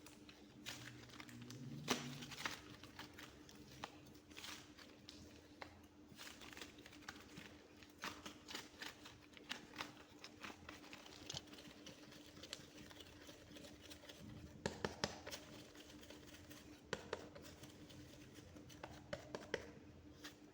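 Soft clay being pressed and worked by hand, giving a faint stream of small sticky crackles and pops, with a louder cluster about two seconds in and again past the middle. A faint steady hum runs underneath.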